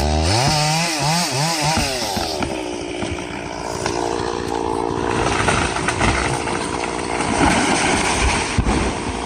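Chainsaw engine revved up and down several times in quick succession, then running steadily under load as the chain cuts into wood.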